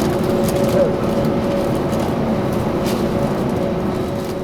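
Jet airliner engines running: a steady rush with a held two-note whine, starting to fade near the end.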